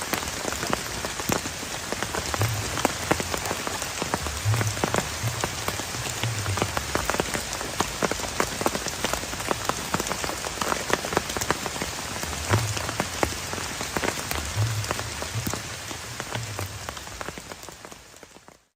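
Heavy rain drumming on a plastic tarp, a dense patter of individual drop hits, with low rumbles coming and going a few times. It fades out near the end.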